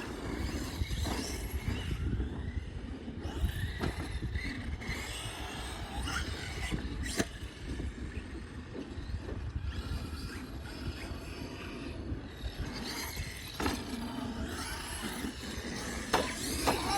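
Electric RC dirt bike running, its motor whine briefly rising and falling over a steady low rumble, with scattered sharp clicks and knocks.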